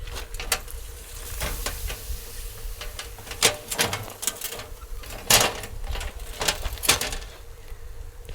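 Firewood burning in a fire pit, crackling with irregular sharp pops; the loudest comes about five seconds in. A low rumble of wind runs underneath.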